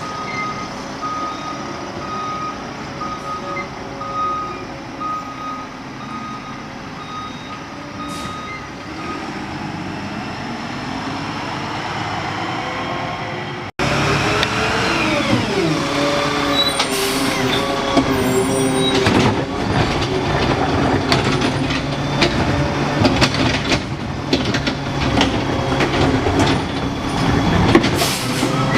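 Garbage truck reversing, its backup alarm beeping evenly over the running engine. After a cut about halfway through, a truck engine revs and falls, with clanks and several short air-brake hisses.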